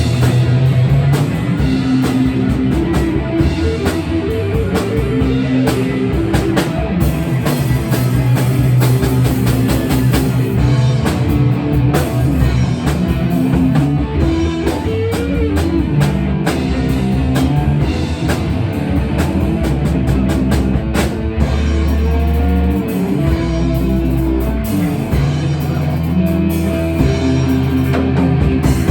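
Rock music with electric guitar and a drum kit playing, loud and steady.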